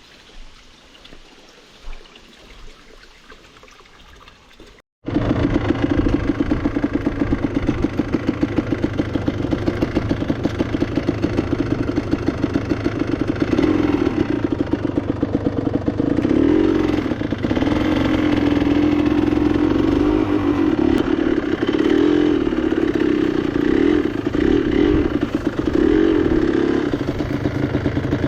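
Enduro motorcycle engine running close to the microphone, with a rapid exhaust pulse and a pitch that rises and falls with the throttle. It cuts in abruptly about five seconds in, after a few seconds of quiet.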